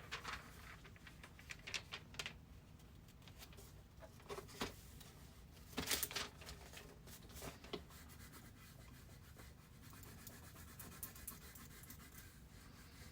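Faint, intermittent scratching and rubbing noises, a few short scrapes scattered over near-quiet room hiss.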